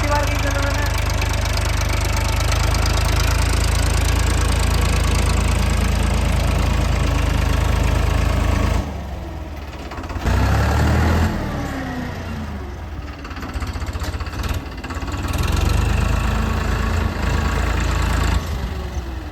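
Tractor engine running hard and steady, then dropping off sharply about nine seconds in, surging briefly, and revving up and down unevenly after that.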